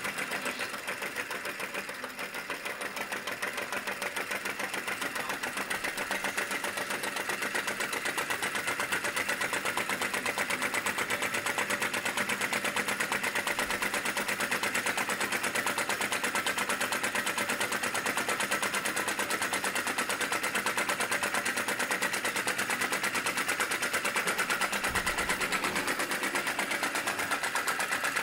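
Model flame-licker vacuum engine running at full speed, about 500 rpm, with a fast, steady popping as each charge of flame is drawn in. The engine is not yet fully run in.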